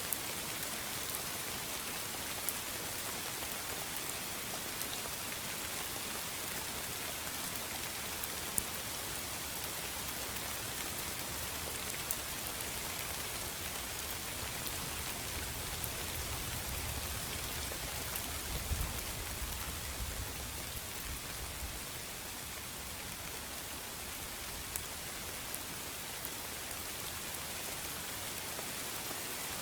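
Steady rain falling, an even hiss with the occasional sharper tick of single drops landing close by. A faint low rumble comes in for a few seconds midway.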